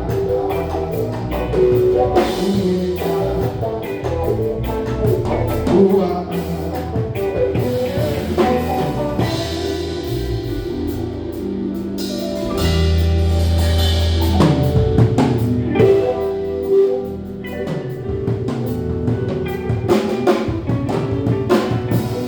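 Live band playing an instrumental passage: drum kit, bass, guitar and keyboards.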